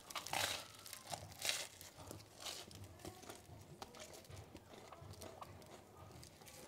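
A person chewing a bite of crispy toasted bread sandwich: faint, irregular crunching that is strongest in the first couple of seconds and then thins out.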